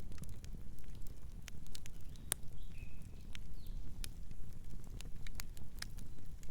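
Campfire crackling and popping, with sharp irregular snaps over a low steady rumble of burning wood. A soft night-bird chirp about two and a half seconds in.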